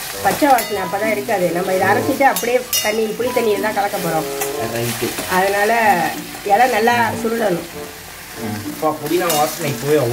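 Mint leaves and a green chilli sizzling in hot oil in a pan as they are stirred, with a melody playing over it.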